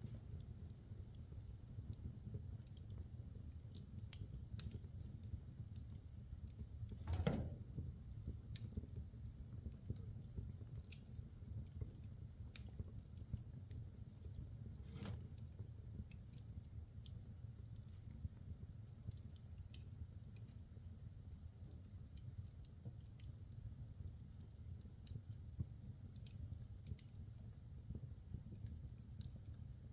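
Logs burning in a wood fireplace, crackling with frequent small snaps and ticks over a low steady rumble of the flames. One louder pop comes about seven seconds in, and another around fifteen seconds.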